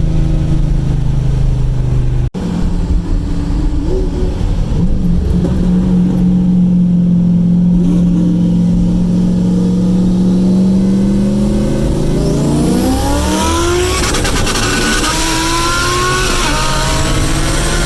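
Turbocharged LS V8 of an IROC-Z Camaro running at a steady engine speed, then accelerating hard from about twelve seconds in, its pitch climbing.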